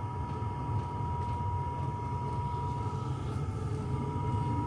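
8 kW diesel air heater running on its lowest setting: a steady low combustion rumble with a constant high whine over it.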